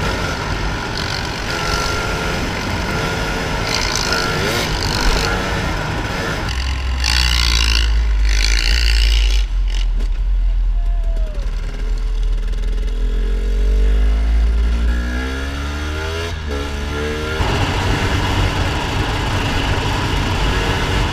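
Dirt bike engines running and revving up and down, the pitch rising and falling, with a heavy low rumble through the middle stretch.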